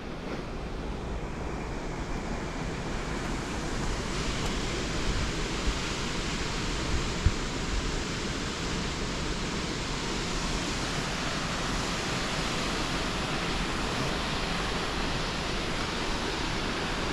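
Steady rushing wind, buffeting the microphone, that grows fuller about four seconds in, with a couple of brief knocks around seven seconds in.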